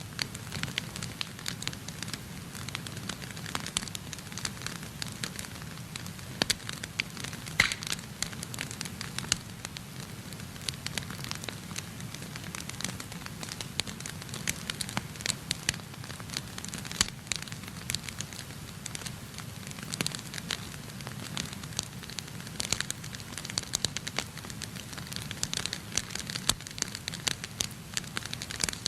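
Wood fire burning in a fireplace: dense, irregular crackles and sharp pops over a low steady rumble.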